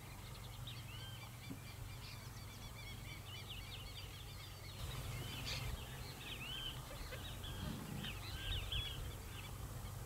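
Small birds chirping: many short, high, arched chirps repeating, over a faint low hum.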